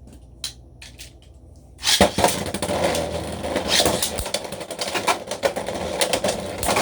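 A few light clicks, then about two seconds in Beyblade spinning tops are launched and clatter and knock against each other with rapid, dense rattling, the sound of a battle under way.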